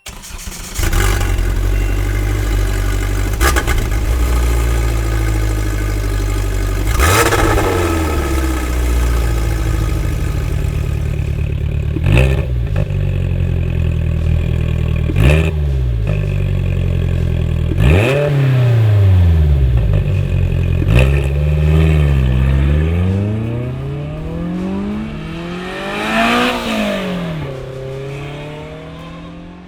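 Polaris Slingshot's 2.0-litre ProStar four-cylinder engine idling and being revved through a Thermal R&D front-exit cat-back exhaust. It is blipped about six times in quick, sharp revs that each fall straight back to a steady idle, with a few softer revs near the end.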